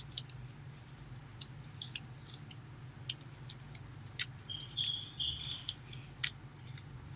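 Origami paper crinkling and rustling in the hands as it is folded and creased: a string of small crackles over a low steady hum, with a brief high squeak about two-thirds of the way through.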